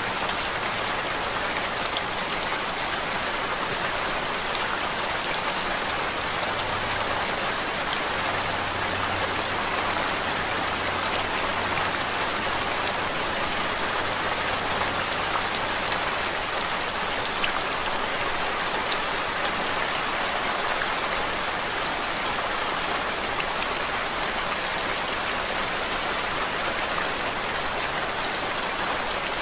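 Steady, unbroken rain noise: an even hiss with faint scattered drop ticks.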